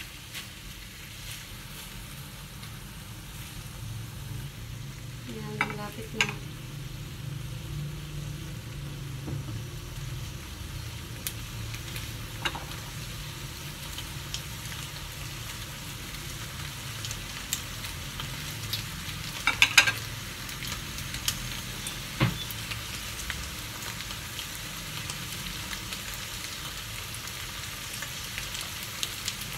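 Tocino slices sizzling and crackling steadily in an aluminium wok over a gas burner. A few sharp clicks of a metal spatula against the pan come about six seconds in and around twenty seconds in.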